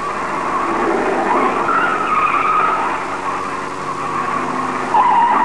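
A motor vehicle running, with a high wavering whine that climbs about a second and a half in, drops back, then jumps up again near the end.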